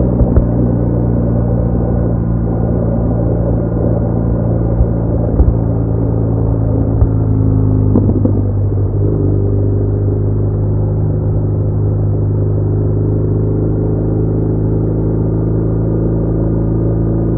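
BMW R1200R boxer-twin motorcycle engine droning steadily at cruising speed, heard muffled. Its note shifts slightly about nine seconds in, with a few light knocks a little before.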